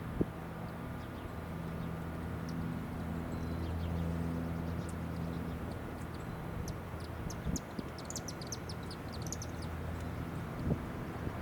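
A low engine hum swells and then fades over several seconds. In the second half it is joined by a quick run of high, short chirps, likely from birds, and a few knocks.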